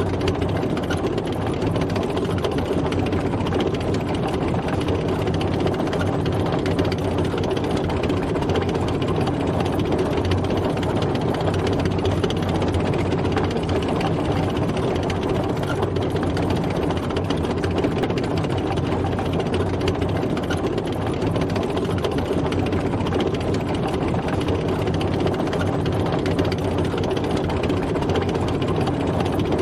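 A tank driving: its engine running steadily under a continuous dense mechanical clatter, at an even level throughout.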